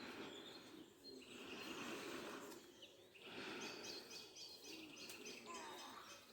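Faint outdoor ambience with bird song: from about halfway through, a small bird repeats a quick series of short high notes over a soft steady background hiss.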